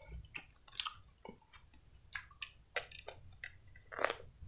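A person chewing, with soft wet mouth clicks, then biting into a hot dog in a long toasted bun about four seconds in.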